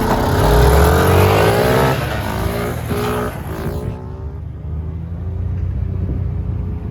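Small gas engine of an engine-swapped Power Wheels quad revving up as it pulls away, then running lower and steadier. The engine had just been restarted after stalling.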